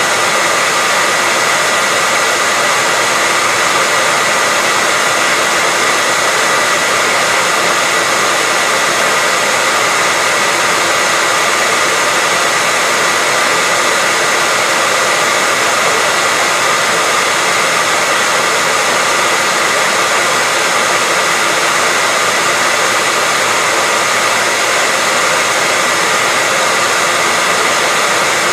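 Hair dryer running steadily: an even, unbroken blowing hiss with a faint high motor whine held on one note.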